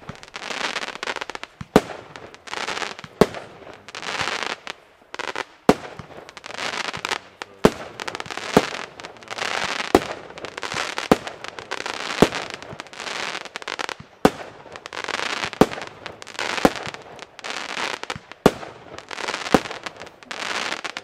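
Consumer fireworks compound cake firing shot after shot, about one every second or so. Each shot is a sharp bang followed by about a second of hissing, crackling noise from the bursting effects.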